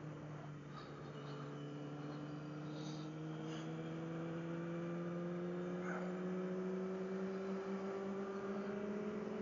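A 600 cc motorcycle's engine running steadily, heard from the rider's on-board camera, its pitch slowly rising as the bike gathers speed.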